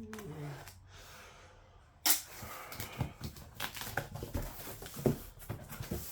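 Packaging being handled as items come out of a cardboard box: irregular rustling, crinkling and light clatter, starting suddenly about two seconds in with a sharp rustle and carrying on in uneven bursts.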